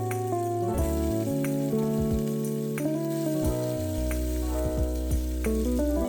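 Pork-belly-wrapped okra sizzling as it fries in a pan, with scattered small pops and clicks, under melodic background music.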